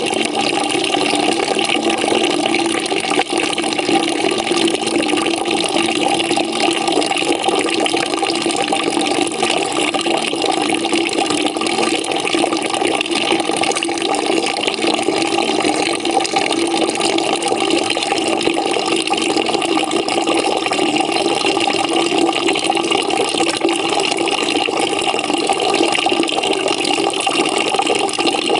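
Water pouring into a bucket as it fills: a steady, unbroken splashing rush with a few held hollow tones ringing in the bucket.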